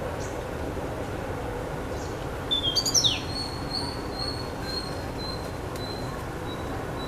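Bird calling: a loud burst of high calls with a quick falling note about two and a half seconds in, then a thin series of short high notes, over a steady low background rumble.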